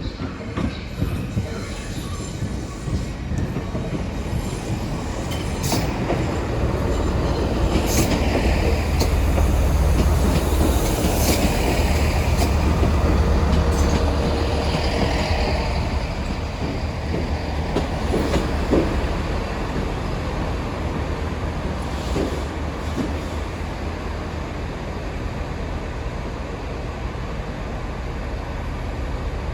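Class 166 diesel multiple unit rumbling into the station. Its low engine and wheel rumble builds to a peak midway and then eases off, with several short, high-pitched wheel or brake squeals along the way.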